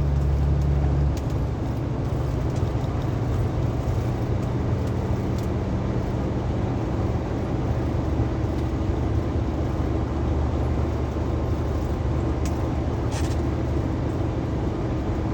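Semi-truck on the road: a steady engine drone over road noise. A louder low hum drops away about a second in.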